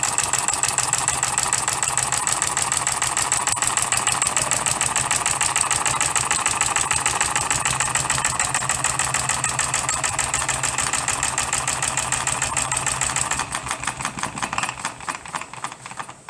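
Custom-built 12cc direct-injection model diesel engine running with a fast, even firing beat; near the end it drops in level and the firing slows and grows uneven as the engine runs down.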